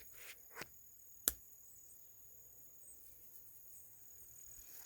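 Crickets or other insects singing a steady high-pitched drone in the bush, with three sharp snaps in the first second and a half. The third snap is the loudest.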